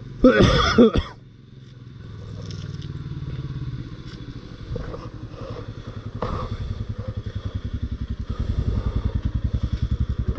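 Motorcycle engine idling with a steady low pulsing beat that gets louder near the end. A brief loud noise comes in the first second.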